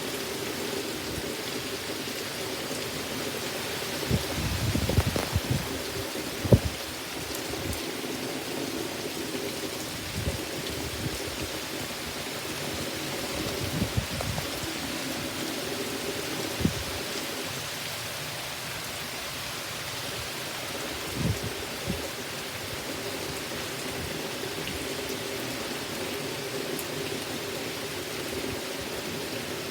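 Heavy rain falling steadily, with several short, low rumbling surges from gusts or thunder, the loudest a few seconds in.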